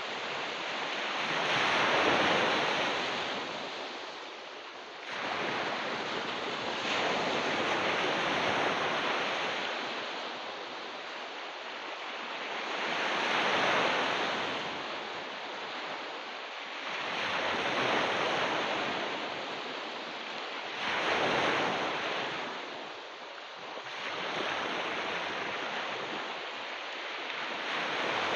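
Ocean waves breaking on a beach, each wash of surf swelling and falling back about every four to five seconds over a steady hiss.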